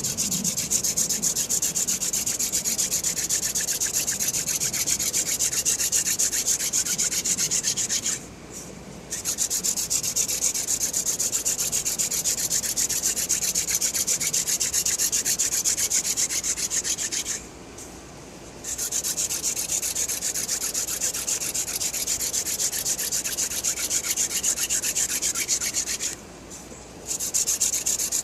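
Hand drill friction fire: a wooden spindle spun back and forth between the palms, rasping rapidly against the wooden hearth board. It breaks off three times for about a second each. It is making brown dust but no ember yet, which the driller takes as a sign that his pressure or technique is off.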